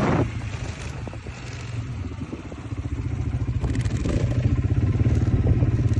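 Enduro motorcycle engine running with a fast, even low pulsing, growing louder from about two seconds in. A loud rush of wind noise cuts off just after the start.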